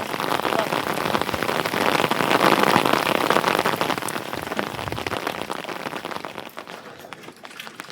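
Heavy rain pattering on a surface, a dense hiss of many small drop ticks. It is loudest two to three seconds in and dies away toward the end.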